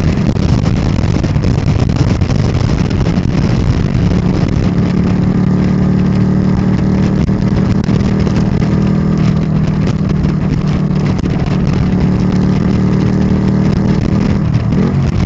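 Ducati Monster 659's air-cooled L-twin running through an aftermarket Termignoni exhaust at a steady pace, a deep continuous engine drone, with the pitch dropping briefly near the end.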